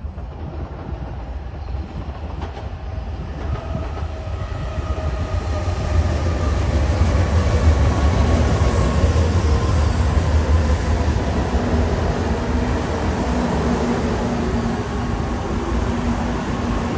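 Shinkansen bullet train passing: a deep rumble builds as it approaches and is loudest in the middle, with a faint whine slowly falling in pitch as it goes by.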